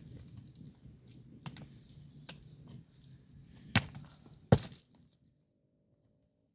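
A few sharp knocks over a low background rumble, the two loudest about a second apart near the middle; then the sound cuts off abruptly.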